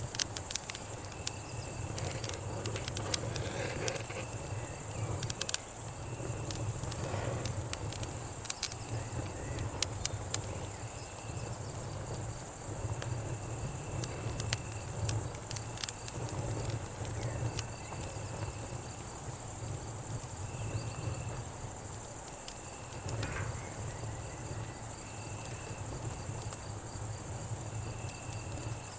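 A steady, high-pitched summer-night insect chorus of cicadas and crickets, with short chirps repeating every second or two. Over it a campfire crackles with scattered sharp snaps, and a low, steady rumble sits underneath.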